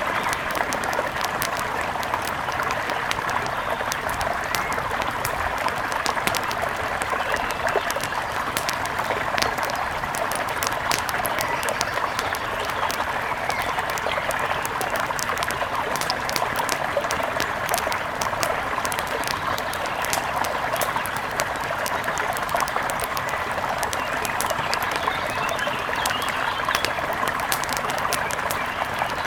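Wood fire crackling in frequent sharp pops over the steady sound of a flowing river.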